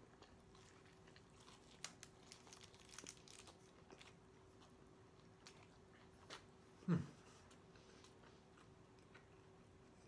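A man chewing a mouthful of soft-tortilla steak taco close to the microphone, with faint, wet clicks of the mouth. About seven seconds in he gives one short low hum that drops in pitch.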